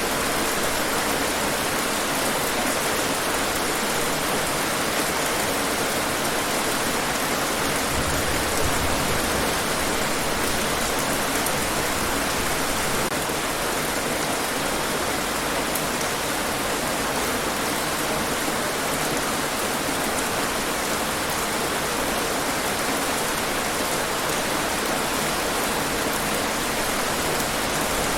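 Steady rain falling and pattering on hard surfaces, an even hiss of drops that holds at the same level throughout.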